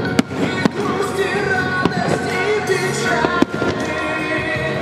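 Aerial firework shells bursting with several sharp bangs, over music with a melody.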